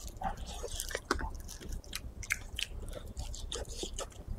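Close-miked chewing of chewy, chili-oil-coated dried meat strips: a bite at the start, then many short wet clicks and crackles as the tough meat is worked in the mouth.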